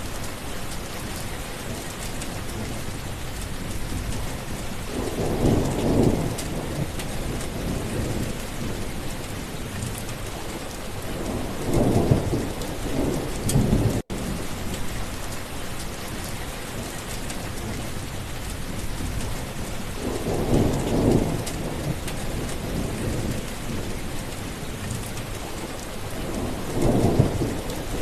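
Steady heavy rain with rolling thunder rumbling four times, every seven seconds or so, and a split-second dropout about halfway through.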